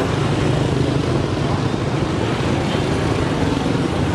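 Car engines running steadily, a dense low rumble of several vehicles together.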